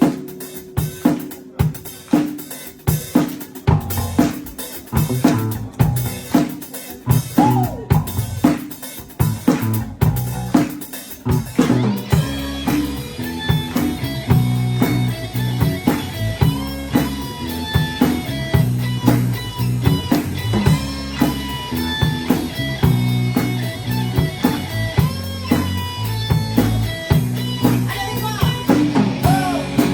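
Rock band playing an instrumental passage: drum kit with snare and rimshot hits over bass, sparse and drum-led at first, then filling out with guitar and a steady beat from about twelve seconds in.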